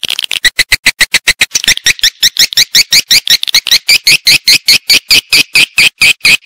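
Swiftlet lure call, a recording of swiftlets' rapid chirps used to draw the birds into a nesting house. The short chirps repeat evenly, about seven a second, and turn into higher, sweeping chirps less than two seconds in.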